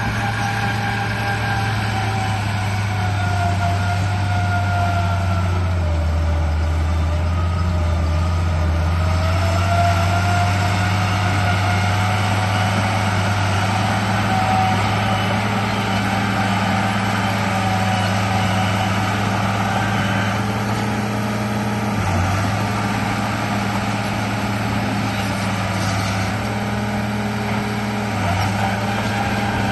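Radio-controlled bulldozer running: a steady engine-like drone with a higher motor whine that wavers up and down as it works. The drone drops lower for a few seconds and cuts out briefly twice.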